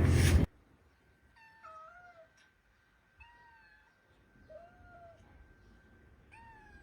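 Kittens mewing: several short, high, rising-and-falling mews, soft and spaced about a second apart. A loud rushing noise cuts off abruptly about half a second in.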